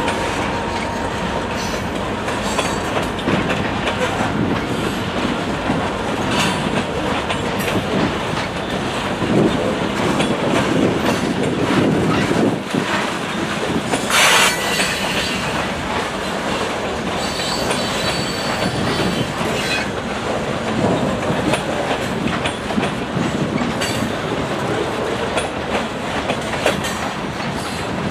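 Freight train of covered hopper cars rolling past, a steady rumble of steel wheels on rail with frequent clicks as the wheels pass over the rails. A brief, sharper noise stands out about halfway through.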